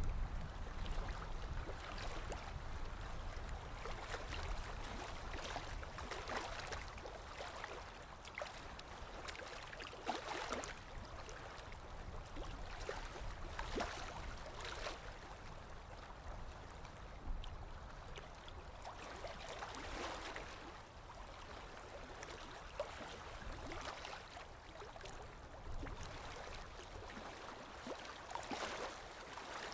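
Water flowing and splashing, swelling and easing in uneven surges every few seconds, with a low rumble that fades out over the first several seconds.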